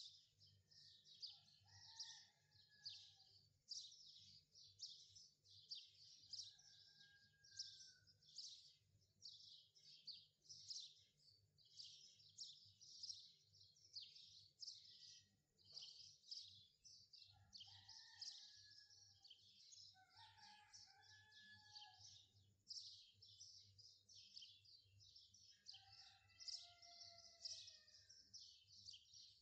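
Faint birdsong: rapid, continual high chirping, with a lower whistled phrase that glides up and down every few seconds, over a faint low hum.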